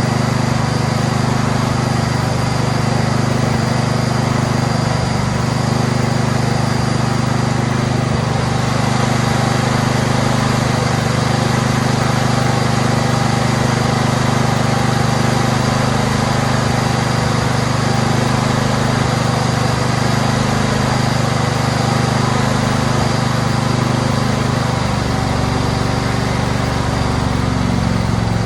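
Husqvarna 2246 riding mower's engine running steadily after a fresh oil change, with a slight shift in its pitch near the end.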